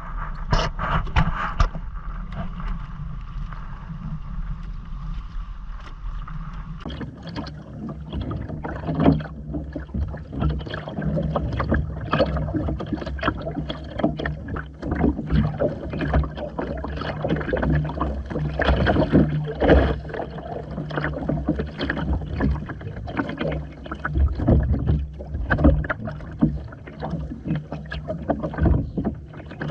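Water splashing and slapping against the hull of a Hobie Island sailing kayak under way, with frequent irregular knocks over a steady low hum. It is busier from about seven seconds in.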